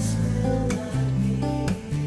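Acoustic guitar music, with strummed chords struck about once a second.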